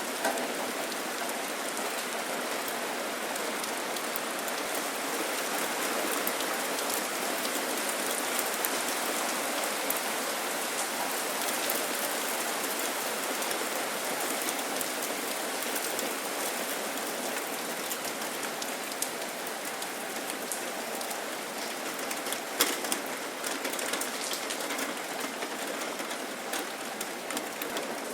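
Steady rain falling and pattering on surfaces, with close drips and splats of single drops scattered through it.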